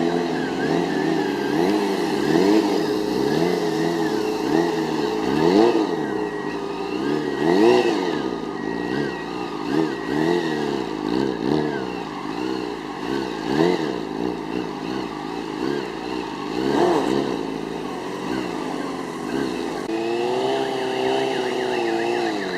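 Sportbike engine revving up and down over and over as the throttle is worked during stunt riding, with the loudest revs about 6 and 8 seconds in.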